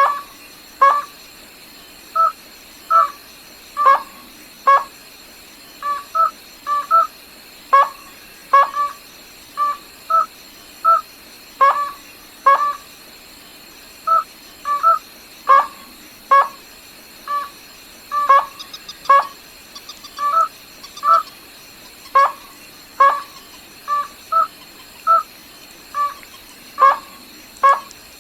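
A gà nước họng trắng (white-throated rail) calling over and over: short, clipped two-pitched notes repeated about one to two times a second without pause. A faint steady high whine sits under the calls.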